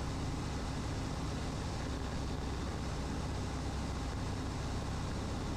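Cessna 150's four-cylinder Continental O-200 engine running steadily, throttled back to slow for the landing approach with flaps extended, heard inside the cabin with a steady rush of air.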